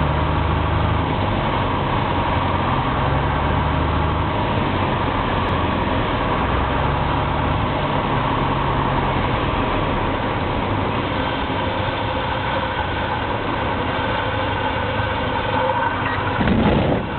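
Cessna 172 engine and propeller running steadily, heard from inside the cabin with airflow noise, on approach to a short grass-field landing. The engine note changes partway through, and there is a brief rough rumble near the end.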